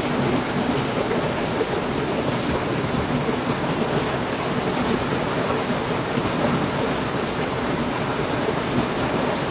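Heavy rain falling steadily, a dense, even patter with no breaks.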